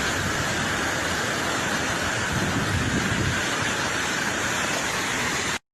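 Steady rushing noise of a car being driven, road and wind noise, which cuts off suddenly near the end.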